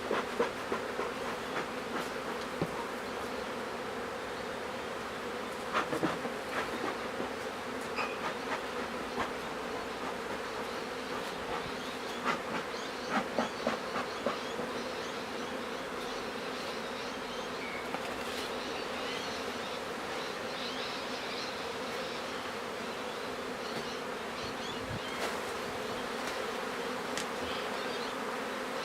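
Honeybee colony buzzing steadily, a continuous low hum, with occasional short clicks and knocks.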